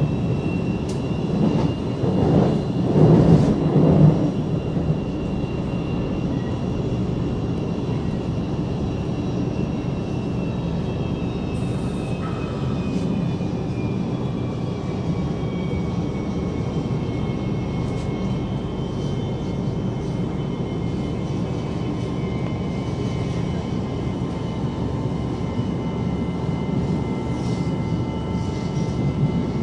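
Cabin noise of a CSR Zhuzhou "AMY" light-rail train underway: a steady rumble of wheels on track with a thin high electric whine that slowly drops in pitch partway through, then holds. The rumble swells briefly a few seconds in.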